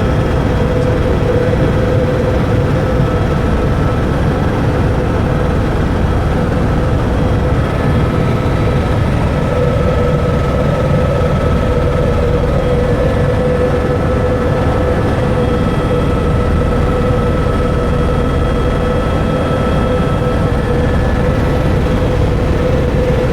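Helicopter in steady flight, heard from inside the cabin: a loud, even drone with a constant whine over it.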